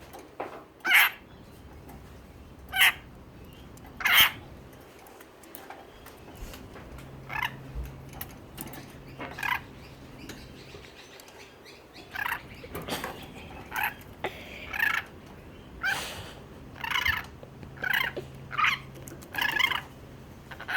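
Pet bird giving short chirping calls, well over a dozen. The loudest come about one, three and four seconds in, and the calls come more often in the second half.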